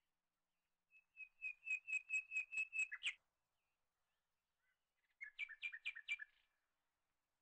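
A small bird chirping: a quick run of about ten sharp, high notes, then after a two-second pause a shorter run of about six.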